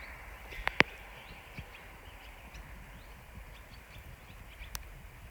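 Quiet outdoor ambience with a faint low rumble, faint short high chirps and two sharp clicks a little under a second in, with another click near the end.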